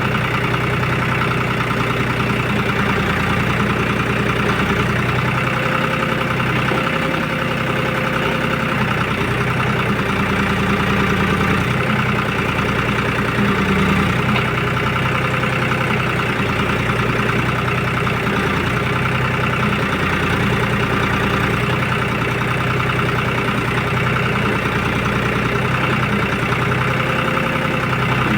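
Tractor's diesel engine running steadily as it drives a tractor-mounted backhoe digging soil, its note shifting slightly every few seconds.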